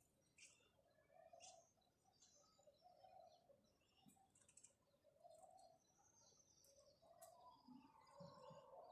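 House sparrows chirping faintly, in short chirps now and then.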